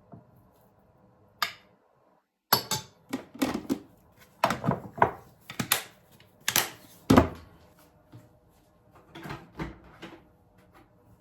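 A quick, irregular run of sharp knocks and clatters, starting about two and a half seconds in after a single click, with a few softer ones near the end.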